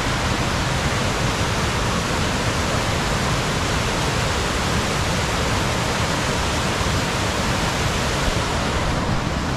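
Steady rush of falling and tumbling water from a mountain waterfall and its cascading creek, an even hiss and roar with no change throughout.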